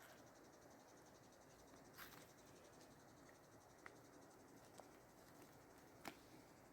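Near silence, with insects making a faint, steady, high-pitched chirring throughout. A few soft clicks sound over it, the clearest near the end.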